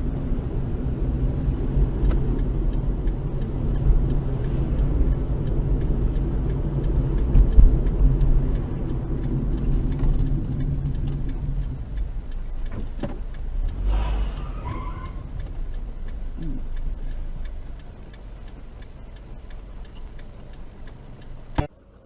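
Car engine and road noise, a steady low hum that fades after about twelve seconds and gets quieter still near the end. A few short knocks come in the middle, and there is a sharp click just before the end.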